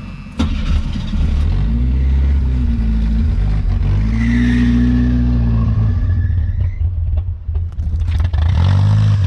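A 1981 AMC Spirit's four-cylinder engine running and being revved several times, its pitch rising and falling. The engine has just been brought back to life after long storage.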